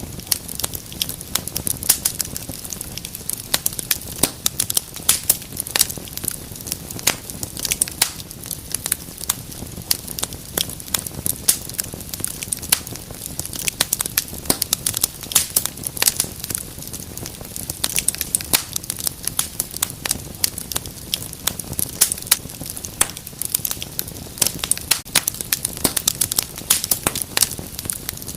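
Wood fire burning in a fireplace, crackling and popping in a dense irregular stream of sharp snaps over a low rumble of the flames.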